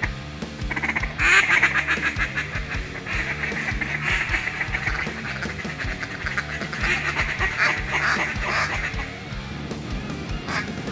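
Rapid runs of duck quacking, fast chattering strings of notes that are loudest through the middle, over background music with a steady bass line.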